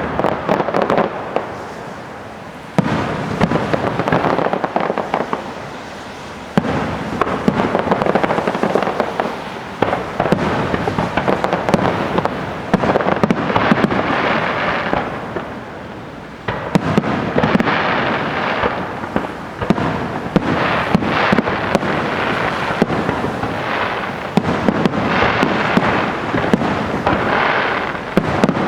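Aerial fireworks display: shells bursting in quick succession with dense crackling and rapid bangs, coming in several waves that each start with a sudden jump in loudness.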